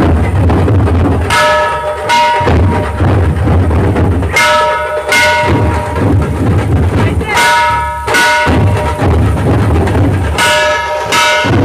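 Dhol-tasha troupe playing: dhol drums beating steadily, with a pair of ringing metal strikes about every three seconds.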